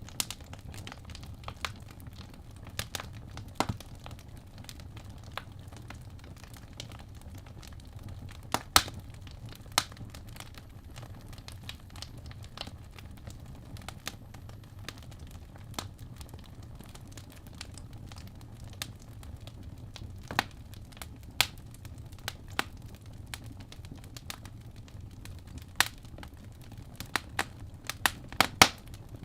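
Wood logs burning in a fireplace, crackling with irregular sharp pops over a low steady rumble. One loud pop comes about nine seconds in, and a cluster of louder pops comes near the end.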